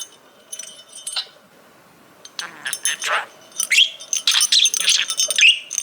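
A small toy bell jingling off and on, with a budgerigar chattering and warbling over it in the second half.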